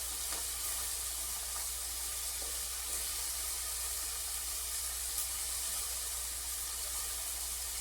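Steady hiss of a big pot of homemade tomato sauce cooking on the stove, over a faint low hum, with a small click about five seconds in.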